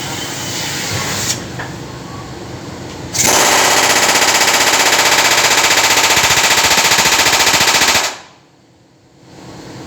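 A pneumatic air tool, such as an impact wrench or air hammer, rattling very loudly and rapidly for about five seconds. It starts suddenly about three seconds in and cuts off abruptly.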